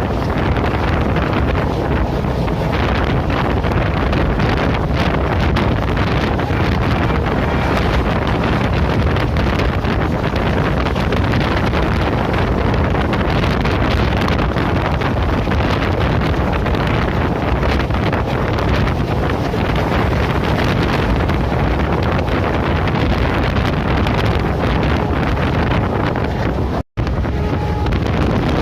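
Wind buffeting the microphone over the steady rumble and track noise of a train running at speed. The sound drops out for an instant near the end.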